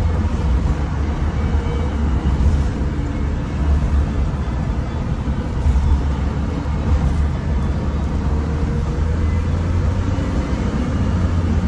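Suzuki Jimny JB23's 660 cc three-cylinder turbo engine and road noise inside the cabin, driving along in rear-wheel drive: a steady low rumble with a faint whine that comes and goes.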